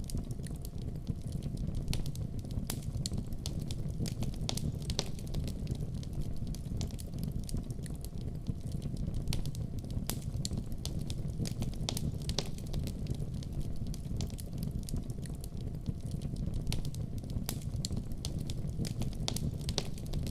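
Wood fire in a fireplace crackling steadily, with irregular sharp pops and snaps over a low, constant rumble of the flames.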